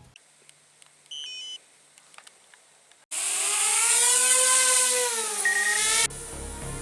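Camera drone's motors whining for about three seconds, the pitch rising and then easing down before cutting off abruptly. A short electronic beep sounds about a second in, before the motors start.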